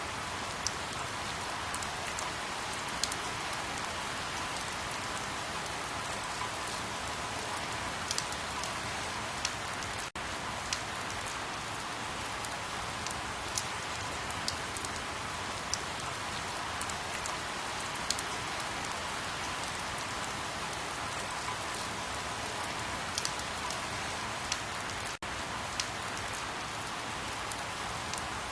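Steady rain falling, with scattered louder drops tapping irregularly over the even hiss. The sound cuts out for an instant twice, about ten seconds in and near the end.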